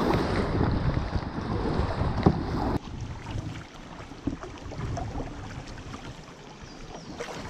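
Fast river water rushing around a kayak, with wind buffeting the microphone. The noise drops off abruptly about three seconds in, leaving quieter flowing water and a few small knocks.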